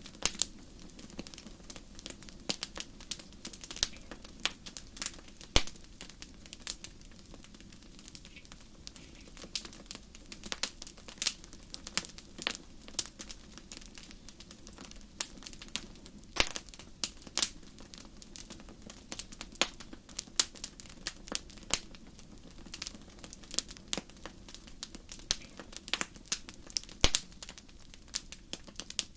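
Fire crackling in a fireplace: irregular sharp pops and snaps, a few of them louder, over a steady low background.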